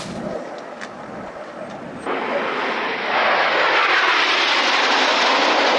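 Jet noise from Red Arrows BAE Hawk jet trainers flying past. It comes in suddenly about two seconds in and grows louder about a second later.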